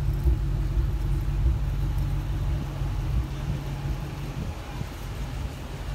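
Engine of a vehicle idling close by in a queue of cars, a steady low hum that fades out about four seconds in.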